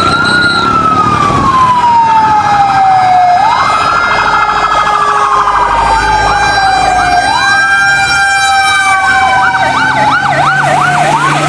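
Fire engine siren wailing: the pitch sweeps up quickly and sinks slowly, about every three and a half seconds, with a faster warbling siren joining in about nine seconds in.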